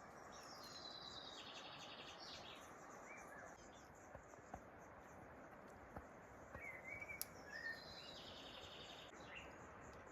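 A songbird singing two short trilled phrases, one near the start and one about two-thirds through, over a faint steady outdoor hiss, with a few light clicks.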